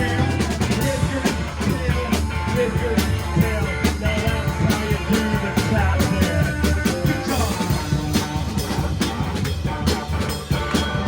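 Live rock band playing: drum kit, bass and guitar together.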